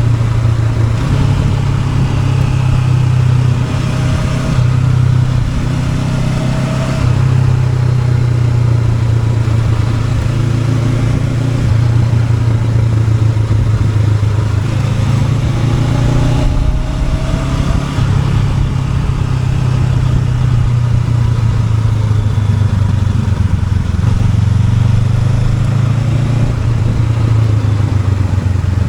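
Honda NX500's parallel-twin engine running under way, a steady low note that rises in pitch briefly a few times as the rider opens the throttle, around 4 to 7 seconds in and again around 15 to 17 seconds in.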